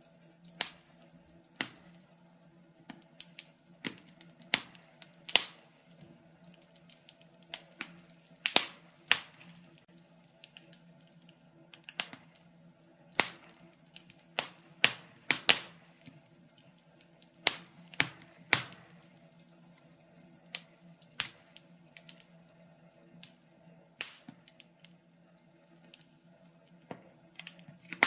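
Wood fire burning in a fireplace, crackling with sharp pops and snaps at irregular intervals, about one a second, over a faint steady low hum.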